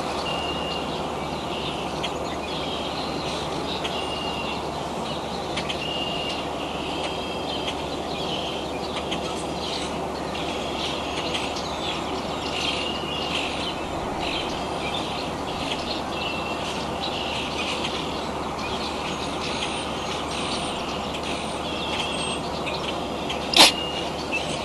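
Steady outdoor background noise with a bird repeating a short, high chirp about once every second or so. A single sharp click comes near the end.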